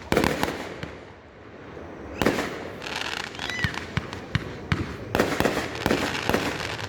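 Fireworks going off: three sharp bangs about two seconds apart, each followed by a spray of crackling pops.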